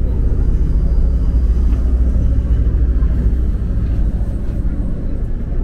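Steady low running rumble inside a moving DRC 1000-series diesel railcar, with the engine and the wheels on the track blending into one even drone.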